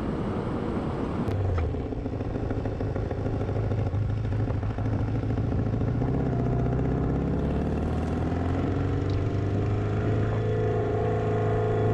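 Motorcycle engine running steadily under way. Its pitch climbs gradually through the second half as the bike picks up speed.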